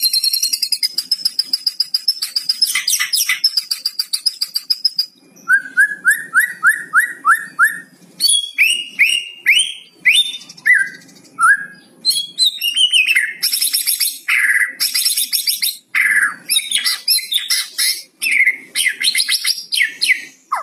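White-rumped shama singing a loud, varied song: a high buzzy trill broken by rapid rattling notes, then about five seconds in a run of eight quick falling whistled notes, followed by a changing mix of whistles and rattles.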